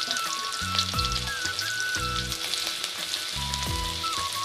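Sliced onions and garlic sizzling in hot mustard oil in an iron kadai, a steady crackling fry.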